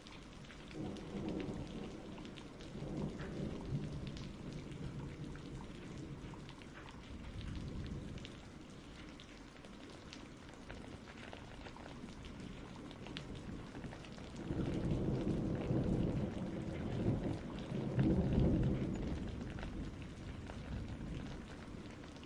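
Steady rain with rolling thunder: a low rumble swells and fades in the first few seconds, and a longer, louder rumble rolls in about two-thirds of the way through before dying away.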